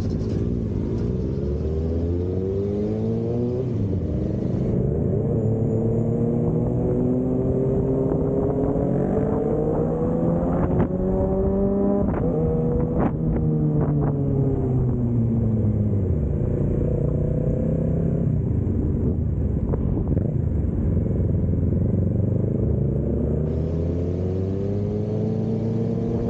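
Onboard vehicle engine under hard driving: its pitch climbs and drops again and again as it accelerates and eases off, highest about halfway through, over steady wind and road noise.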